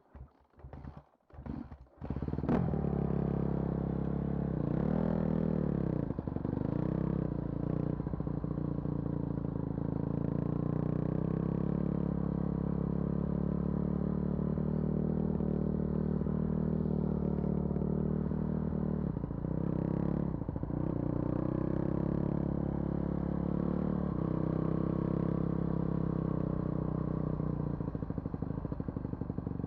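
A vehicle engine fires after a few short bursts and catches about two seconds in, then runs steadily at idle, its speed briefly rising and falling twice.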